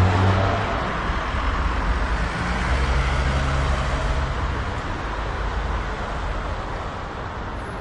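Traffic on a small street heard from a third-floor height: vehicles passing below, with engine hum near the start and again about two and a half seconds in, the road noise slowly fading toward the end.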